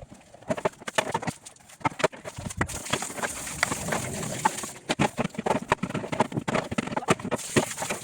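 Plastic refrigerator shelves and drawers being washed by hand: repeated knocks and clatters of the parts, with tap water running for about two seconds in the middle.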